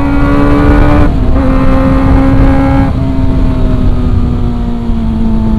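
Kawasaki ZX-25R's 250 cc inline-four engine running under way at a steady high-pitched note, dipping briefly about a second in and again near three seconds, then easing slowly lower in pitch.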